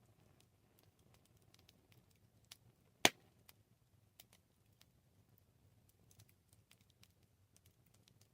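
Wood campfire crackling: scattered small pops and snaps, with one loud crack about three seconds in.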